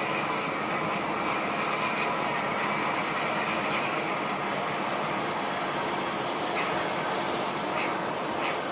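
Steady engine and road noise of a moving intercity bus, heard inside the cabin.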